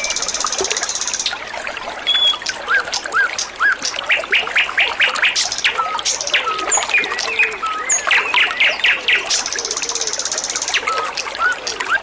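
Songbird singing a busy, varied song over trickling running water: quick runs of sharp chirps, short whistled notes, and a buzzy rattle at the start and again near the end.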